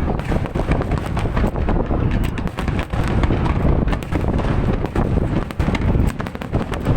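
Fireworks display going off continuously: many overlapping booms and sharp cracks in quick succession over a heavy low rumble.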